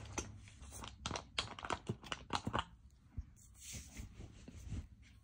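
Close-up crunching and chewing of a dry, crumbly snack: a quick run of crisp cracks about a second in, then softer chewing and a few more cracks near the end.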